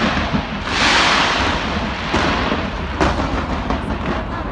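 Fireworks display going off: repeated bangs over a continuous low rumble, with a loud hissing, crackling burst lasting over a second starting just under a second in.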